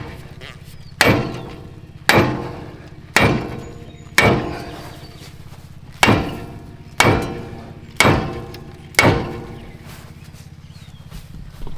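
Hammer blows on the seized front wheel and brake of a 1970 Chevy C-40 truck, beating at it to free it up. There are eight strikes about a second apart, with a short pause midway, and each one rings briefly.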